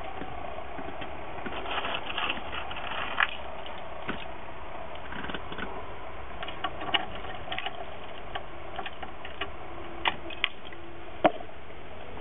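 Petrol engine of a 1977 Winnebago Chieftain, a 7.2-litre Dodge, running at a steady low rumble, with scattered sharp clicks and ticks.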